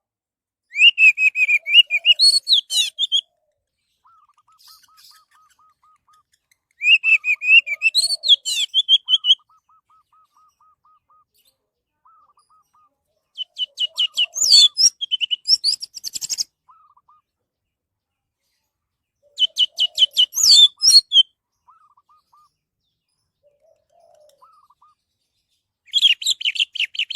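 Orange-headed thrush singing: loud, rapid, varied high-pitched phrases of two to three seconds each, repeated about every six seconds, with faint, lower repeated notes in the gaps.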